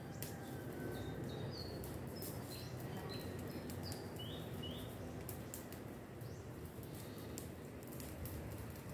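Small birds giving a handful of short, high chirps in the first half, over steady low outdoor background noise with scattered faint clicks.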